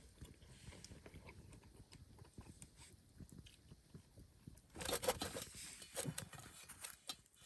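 Someone biting into and chewing crusty homemade pizza close to the microphone, with small crisp crunches throughout and a louder bite about five seconds in.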